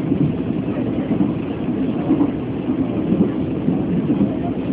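Steady, loud rumble of a Chu-Kuang Express passenger coach running along the track, heard from inside the carriage.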